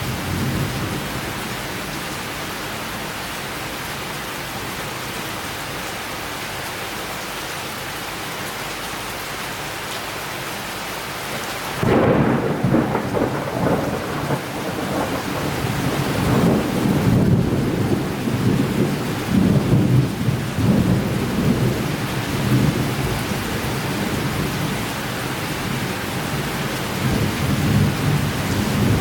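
Summer thunderstorm: steady rain falling, then a sudden thunderclap about twelve seconds in. Long rolling rumbles of thunder follow and swell again near the end.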